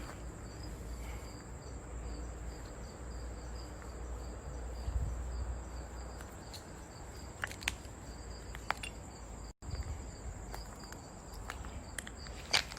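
Insects chirping steadily in a high, evenly pulsing drone, with a few faint clicks near the end.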